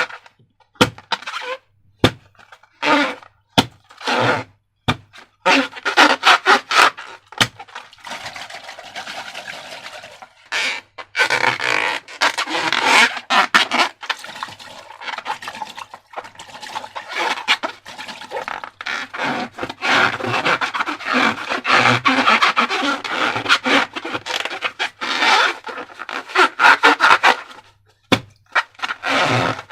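Slime and rubber balloons being handled: sharp clicks and crackly rubbing that come in bursts of a second or two, with a longer, steadier stretch from about eight seconds in.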